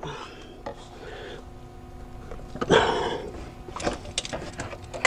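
A short breathy grunt of effort about three seconds in, then a scatter of light metallic clicks as a hand works parts in a cramped engine bay.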